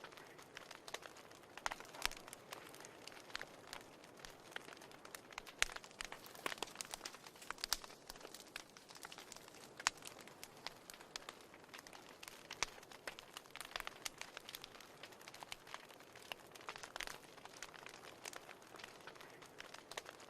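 Wood fire in a fireplace crackling: a soft hiss with irregular sharp pops and snaps, several a second, a few of them louder.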